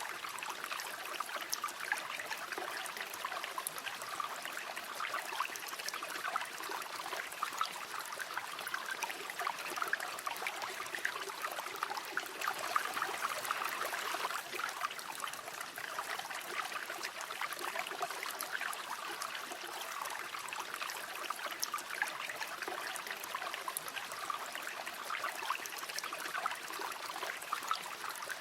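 Steady river water flowing and babbling over stones, with a continuous trickling, splashing texture.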